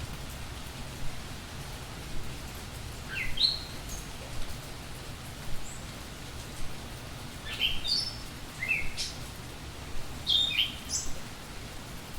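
Small birds calling: short rising chirps, first a few seconds in, then in clusters later on, over a steady low background hiss.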